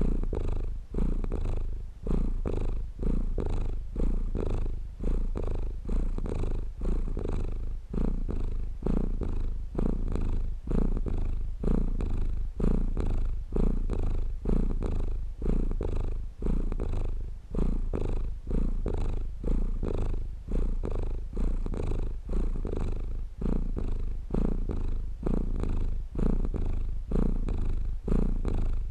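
Domestic cat purring steadily, a low rumble that swells and fades in an even rhythm about once a second.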